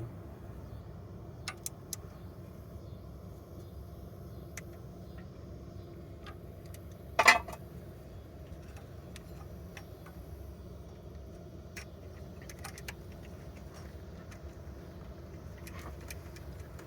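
Scattered small metallic clicks and one sharp, loud clank about seven seconds in, from tools and parts being handled while fitting an engine's timing belt and tensioner, over a steady low rumble.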